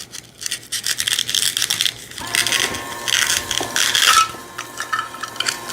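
Toy plastic knife cutting through Velcro-joined play food, the hook-and-loop fastener tearing apart with a scratchy crackle that is loudest from about two to four seconds in. A faint steady whine runs underneath from about two seconds in.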